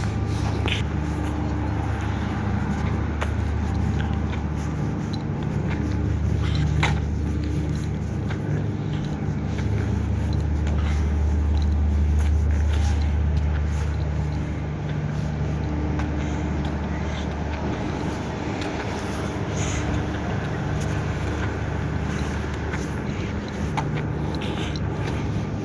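A motor running steadily with a low drone that swells and eases slightly in level, with a few faint clicks over it.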